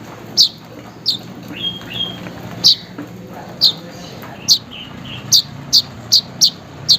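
Manyar (weaver bird) calling: a series of short, sharp, downward-sliding chirps, spaced about a second apart and coming faster near the end, with a few softer notes in between.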